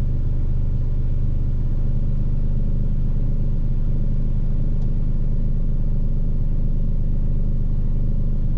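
A lorry's diesel engine idling: a steady low drone.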